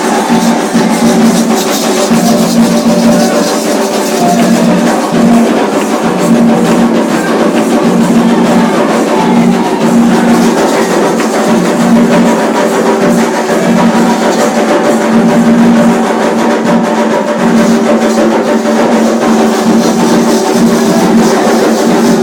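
Music with drums and percussion playing continuously and loudly.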